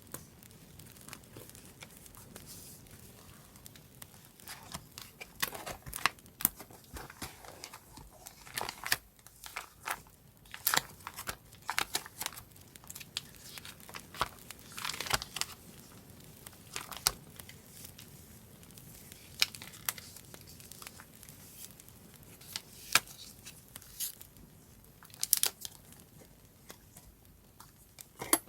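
Paper being handled, crinkled and torn for a journal page, in irregular sharp crackles and short rustles.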